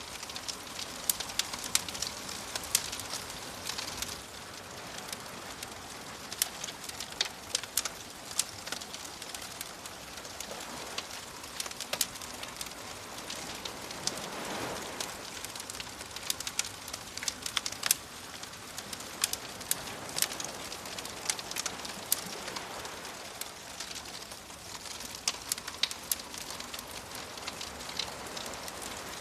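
Wood fire crackling, with many sharp pops and snaps over a steady hiss, while soft waves wash in a few times underneath.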